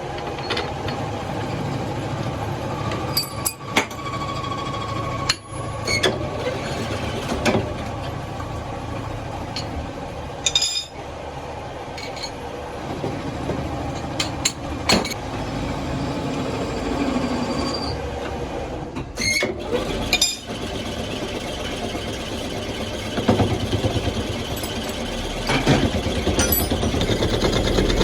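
Metalworking shop noise: machinery running steadily with scattered sharp metal clinks and knocks, the running noise growing louder near the end.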